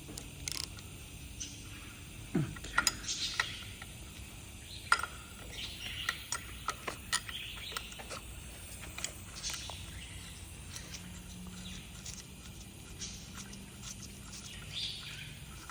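Irregular light metallic clicks and taps of a wrench working a nut loose on a cylinder head bolt.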